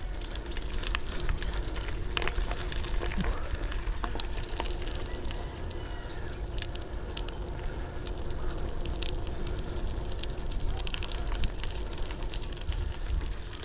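Folding bicycle rolling down a steep paved hill, with steady tyre and wind rumble on the action-camera microphone and scattered irregular clicks and rattles from the bike.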